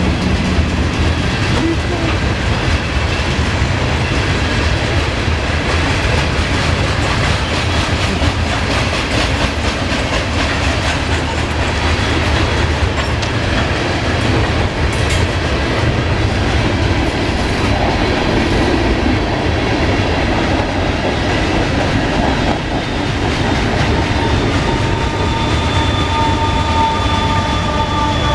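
Norfolk Southern mixed freight train's cars rolling past at close range: a steady rumble with the clatter of wheels over rail joints. Near the end, steady high-pitched wheel squeal joins in.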